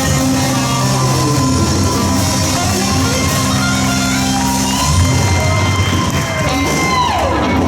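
Live rock band playing electric guitar, bass and drums, with a long held guitar note that slides steeply down in pitch near the end.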